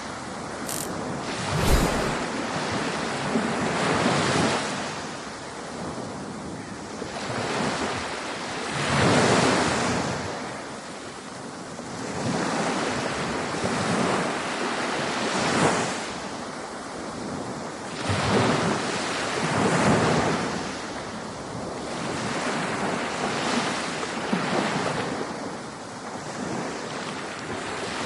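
Ocean surf and wind: waves breaking and washing in surges that rise and fall every two to three seconds, with wind buffeting the microphone. A short sharp knock and a low thump come about a second or two in.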